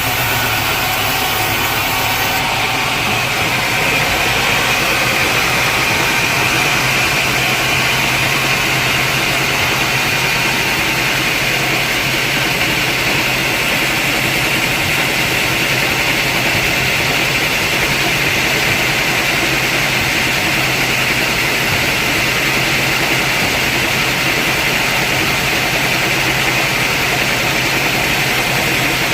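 Sawmill saw running steadily: a continuous loud machine drone and hiss, the hiss growing stronger about three seconds in.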